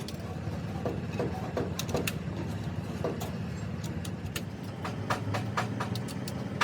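A steady low mechanical drone, like a running motor, with scattered sharp clicks and taps, more frequent in the second half.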